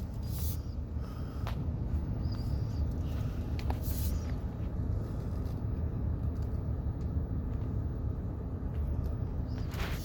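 Car driving slowly, a steady low engine and road rumble, with a few faint clicks.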